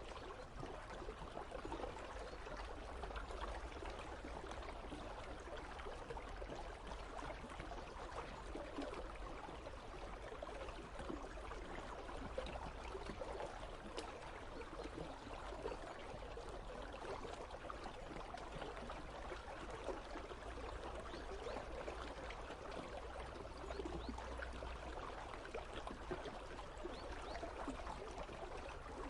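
Icy river running steadily, a continuous flow of water over stones.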